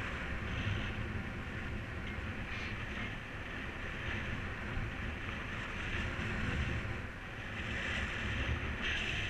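Wind buffeting the microphone in paraglider flight: a steady low rumble with a rushing hiss that eases off midway and picks up again near the end.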